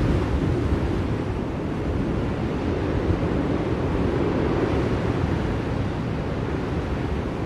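Blizzard wind blowing steadily, a continuous rushing noise heaviest in the low end and swelling and easing only slightly.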